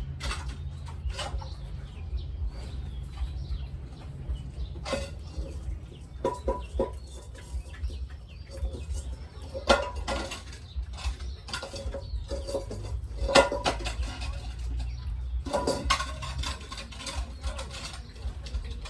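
Chickens clucking in short, repeated calls, with scattered sharp clicks and a steady low rumble underneath.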